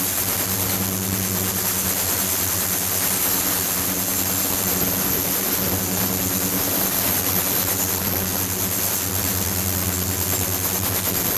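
Ultrasonic water tank with flowing water running: a steady hiss over a low hum, with a faint high whine on top, unchanging throughout.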